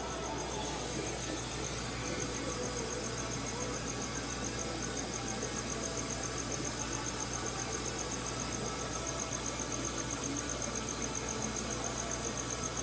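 Crickets chirping: a high, even pulsing note about five times a second, over a steady low hum and hiss.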